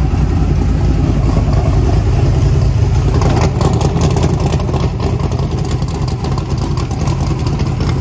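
Steve Morris 540-cubic-inch twin-turbo big-block V8 idling steadily at about 1,300 rpm, exhausting through short open turbo downpipes with no mufflers.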